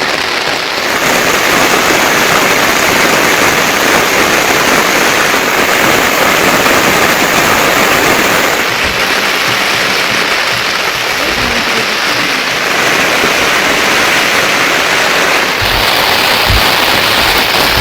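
Heavy monsoon rain falling steadily, a dense hiss whose tone shifts a few times, with a few dull low thuds near the end.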